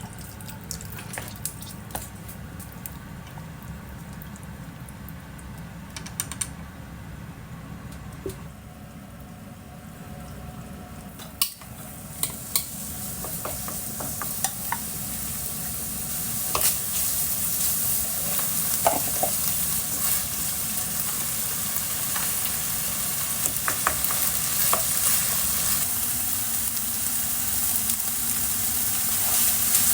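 Food frying in a pan, with occasional sharp clicks and scrapes of a utensil stirring it. The sizzling starts faint and swells into a loud, steady hiss from about a third of the way in.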